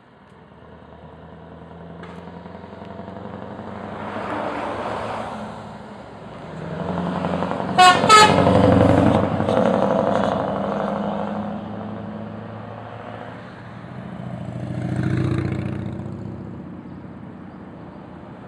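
Scania R500 truck's V8 engine and exhaust clattering as it pulls away and drives past, swelling and fading. Two short horn blasts come about eight seconds in, at its loudest, and the engine swells again near the end.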